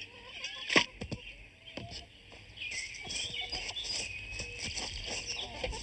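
A sharp thump about a second in, then birds chirping steadily in quick short calls.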